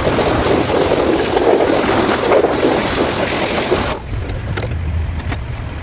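Daihatsu Cuore engine running loudly just after starting, then dropping suddenly to a quieter low idle about four seconds in.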